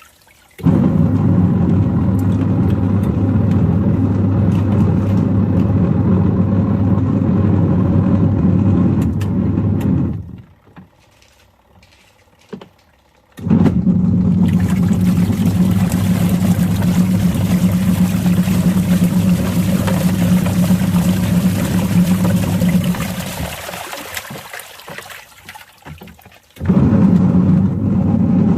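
Washing machine motor running its wash cycle with a loud steady hum. It stops for about three seconds, starts again, winds down, then starts up once more near the end: the stop-start churning of an agitation cycle.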